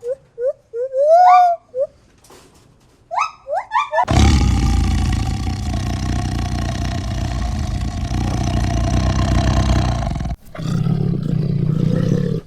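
Animal calls: a few short calls rising in pitch, then one long, loud, drawn-out call lasting about six seconds, followed by a shorter, lower call near the end.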